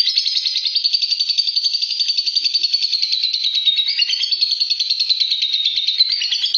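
Lovebird singing a long 'ngekek': an unbroken, high-pitched rapid chatter of about eight to ten notes a second, with no pause.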